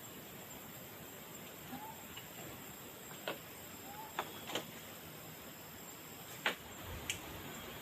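Five sharp clicks or knocks, spaced irregularly, over a steady hiss; the loudest comes near the end.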